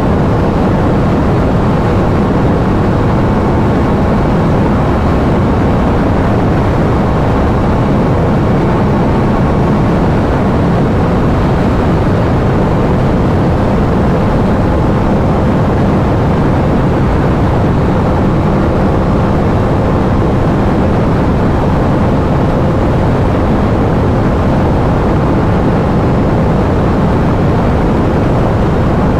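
Aprilia RS 660's 659 cc parallel-twin engine, on its stock exhaust, holding a steady highway cruise, mixed with a constant rush of wind noise.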